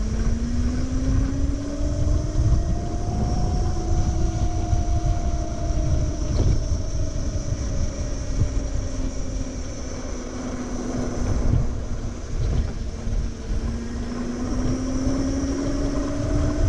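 Wind buffeting the microphone while riding an electric moped, with the motor's whine rising and falling slowly with speed under the rumble.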